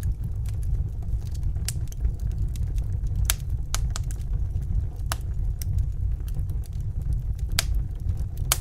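Wood fire burning: a steady low rumble of the flames with scattered sharp crackles and pops of the burning logs.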